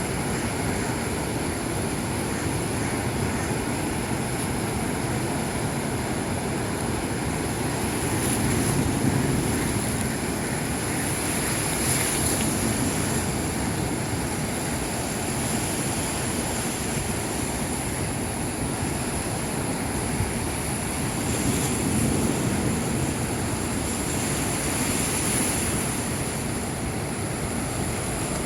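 Sea waves washing in, a steady rushing noise that swells several times as bigger waves break.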